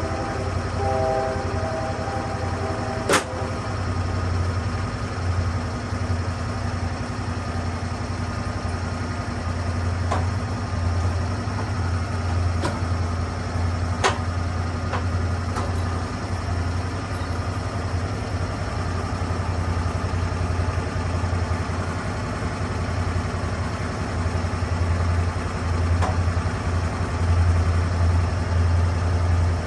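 Lucas Mill portable swing-blade sawmill's engine running steadily with a strong low hum, broken by a few sharp clicks or knocks, the loudest about three seconds in and another about fourteen seconds in.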